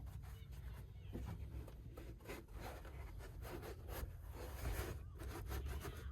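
Rustling, scraping and light clicks of small toiletry bottles and packages being handled and set down, many short sounds over a steady low rumble.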